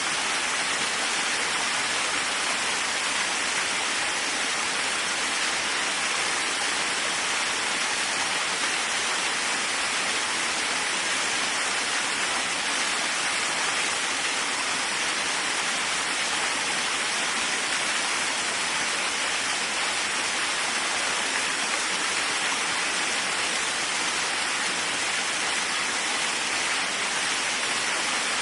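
Waterfall: a steady, even rush of falling water, strongest in the hiss rather than the low rumble.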